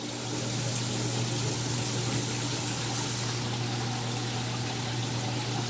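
Steady low hum of a saltwater aquarium's circulation pump with water rushing and bubbling through the tank system.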